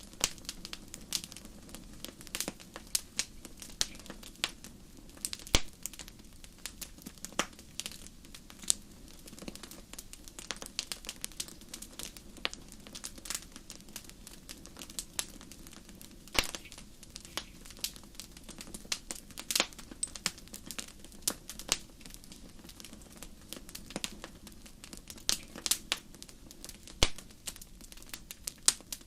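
Wood fire burning in a fireplace, crackling and popping with many irregular sharp snaps over a low steady rumble of the flames.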